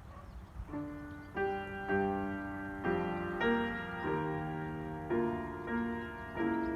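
Piano playing a slow melody over sustained chords, coming in about a second in, with a new note or chord roughly every half second to a second.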